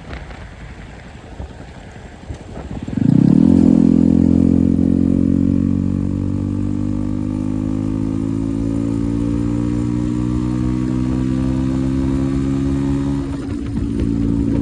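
Yezdi Roadster's single-cylinder engine starting up about three seconds in, flaring briefly and then settling into a steady idle through an aftermarket Akrapovic exhaust, with a small change in note near the end. Before it starts there is only wind noise.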